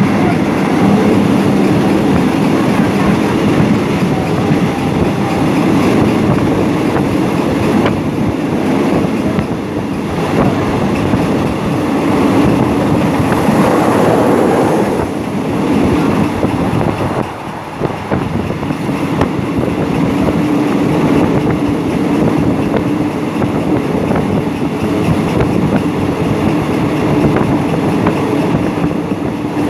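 Passenger train running at speed, heard from inside a coach: a steady rumble and rattle of steel wheels on the rails. It gets briefly louder about halfway through, then dips for a moment.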